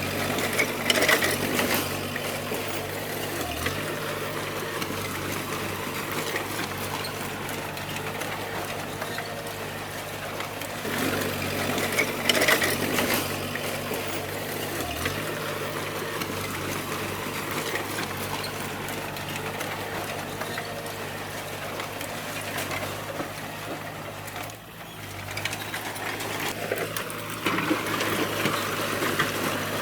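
D20 bulldozer's diesel engine running steadily, with a busy mechanical clatter over it. There are two louder bursts of clanking noise, one about a second in and another around twelve seconds in, and a brief drop in level shortly before the end.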